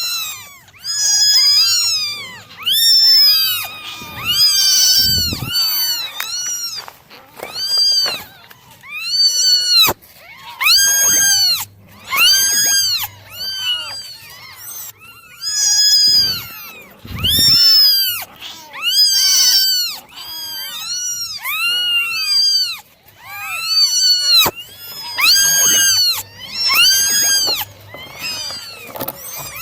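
Several kittens meowing loudly and over one another, a near-continuous run of high rising-and-falling meows, with a couple of low thumps among them.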